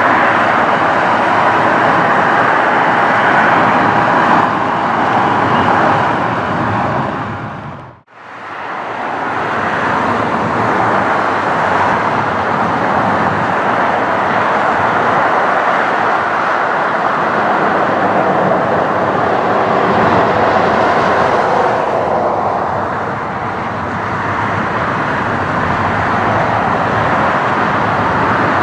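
Jet airliner engines running loud, with a steady whine over the roar. About eight seconds in the sound fades out and cuts, then another jet's roar comes in.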